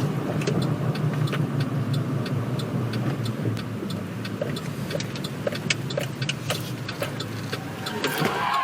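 Steady drone of a car's engine and road noise from a dashcam recording, with light ticks scattered through it.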